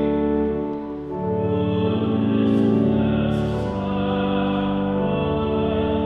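Church hymn music: held organ chords that change every second or two, with singing over them.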